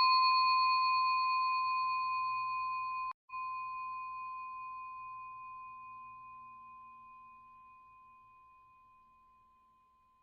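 A single bell-like chime ringing out and slowly fading away over several seconds, with a brief break about three seconds in.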